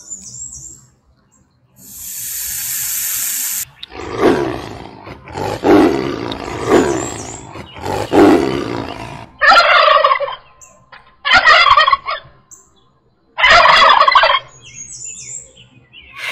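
A snake hissing once for about two seconds, then a tiger growling in several low, rough bursts, followed by three louder, harsher calls about a second long each.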